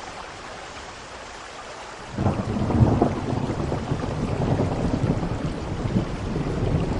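Steady rain falling, joined about two seconds in by a rumble of thunder that sets in suddenly and keeps rolling.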